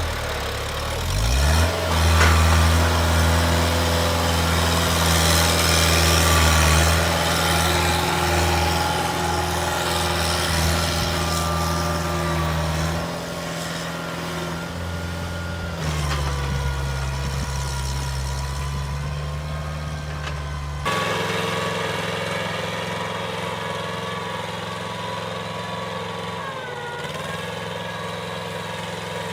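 Mini tractor engines running steadily, in several spliced clips: the engine note changes abruptly three times partway through, and near the end the engine dips briefly in speed.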